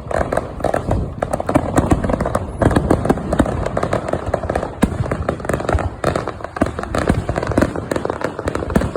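Aerial fireworks going off in rapid, overlapping bangs and crackling pops, a dense barrage with no gap between bursts.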